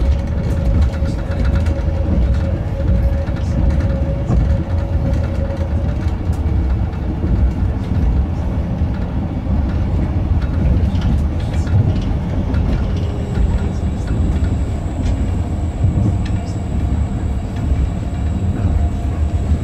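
Electric multiple-unit train running, heard from inside the passenger car: a steady low rumble of wheels on rail with scattered clicks. A faint whine fades out about six seconds in.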